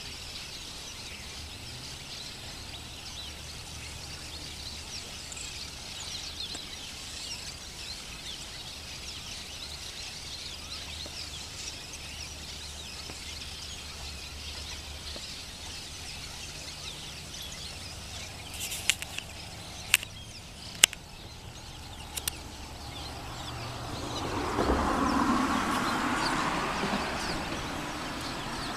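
A chorus of many small birds chirping over a steady low rush of river water. About two-thirds of the way in come a few sharp cracks, and near the end a broad rumble swells and then fades.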